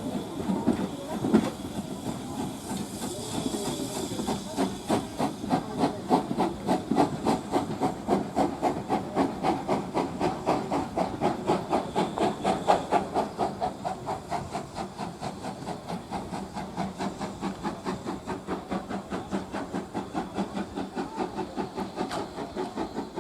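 Steam locomotive letting off a hiss of steam, then working with a steady rhythm of exhaust beats that grows over the first few seconds and slowly fades.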